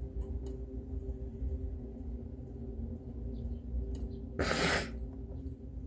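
Steady low room hum with one short burst of noise, about half a second long, a little after four seconds in.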